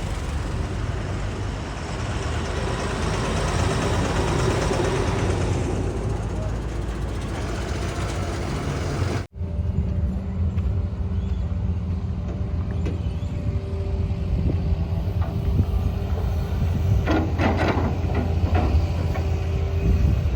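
Heavy diesel machinery running steadily, with a sharp cut to a new clip about nine seconds in; a few clattering knocks come through near the end.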